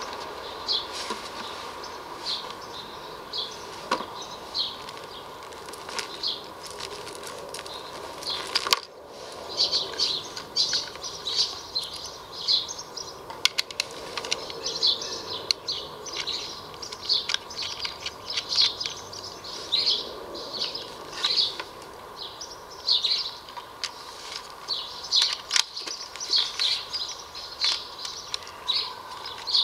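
Small birds chirping, short high chirps coming several a second, busiest from about a third of the way in, over a faint steady high tone. A few faint clicks stand out here and there.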